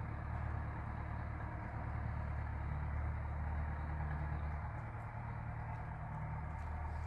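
An engine idling steadily: a continuous low hum.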